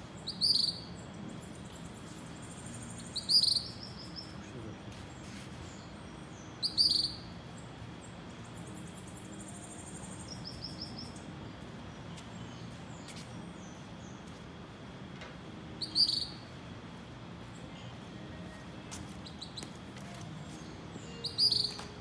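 Early-morning birds calling: one bird gives a short, sharp, high call five times, a few seconds apart, with fainter chirps from other birds between.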